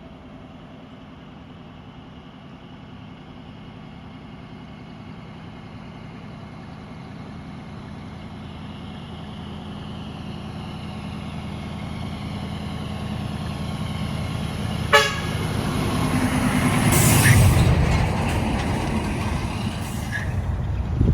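Diesel tractor-trailer truck approaching and driving past, its engine growing steadily louder, with a short horn toot about 15 seconds in and the loudest moment as it passes a couple of seconds later.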